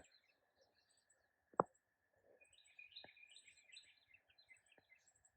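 Faint bird chirping in quiet open air, with a single sharp click about one and a half seconds in and a few fainter clicks.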